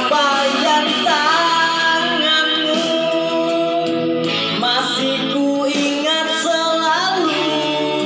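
A song: a solo voice singing long, sliding held notes over guitar accompaniment.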